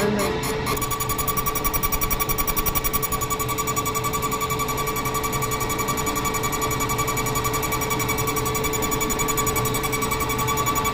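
Delphi common-rail high-pressure diesel pump running on a test bench: a steady machine whine with rapid, even pulsing, which quickens a little under a second in.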